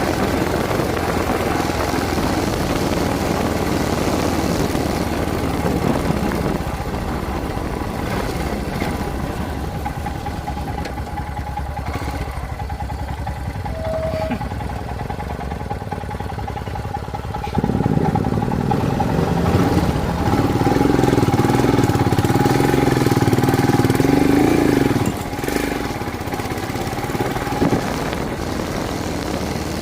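Motorcycle engine running on a ride. It gets louder and steadier a little past halfway for several seconds, then drops back.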